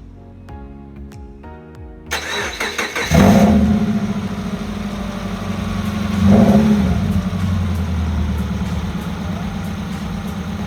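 A Subaru flat-four engine cranks for about a second, catches and fires loudly, then settles into a steady idle with one brief rev blip about halfway through. It runs without a muffler, exhausting through only the downpipe and catalytic converters. Background music plays for the first two seconds.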